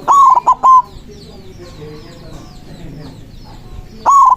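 White zebra dove (perkutut) cooing its manggung song. Each phrase is one longer note followed by two short ones, and the phrase comes again about four seconds later, just before the end.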